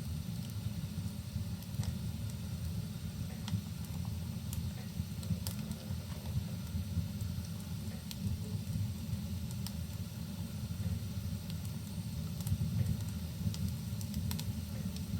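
Rain and a crackling log fire: a constant low rumble with a faint hiss over it, and scattered sharp pops and crackles.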